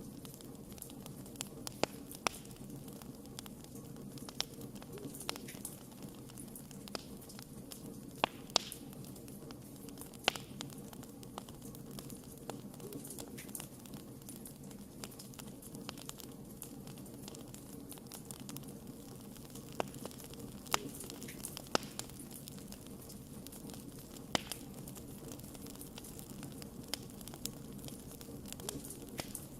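Wood campfire burning: irregular sharp pops and crackles over a steady low rumble of flame.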